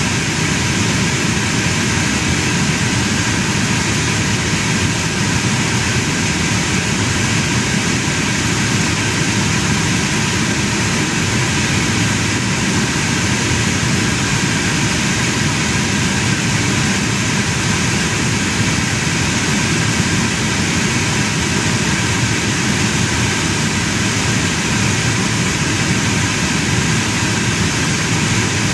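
Lincoln's engine running steadily at idle, heard from inside the cabin, under an even rush of air with no breaks or changes. No misfire registers on the scan tool at this point.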